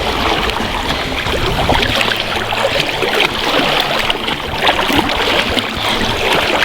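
Continuous splashing and sloshing of wading through deep flood water, many small irregular splashes over a steady rush of moving water.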